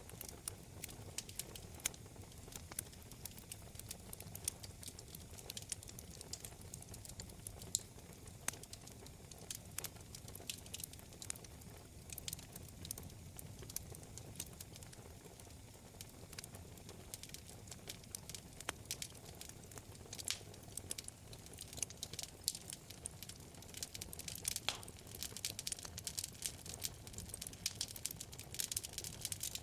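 Wood fire burning in a fireplace: many small, irregular crackles and pops over a steady low rumble of the flames, the pops growing denser near the end.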